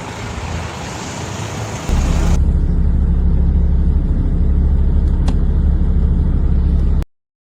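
An even hiss, then about two seconds in a loud steady low rumble of a vehicle running starts and holds, cutting off suddenly near the end.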